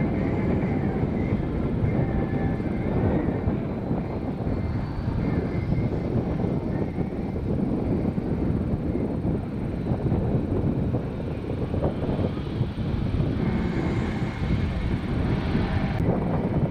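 Jet aircraft engines running: a steady, low rumble with a faint high whine above it.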